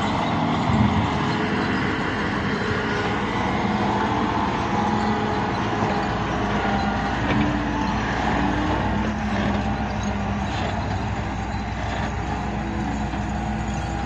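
Heavy diesel machinery running steadily, the engine holding an even pitch.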